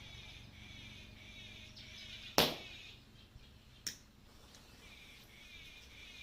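A small Diwali firecracker going off with one sharp bang about two seconds in, followed by a fainter crack a second and a half later. Faint steady chirping runs underneath.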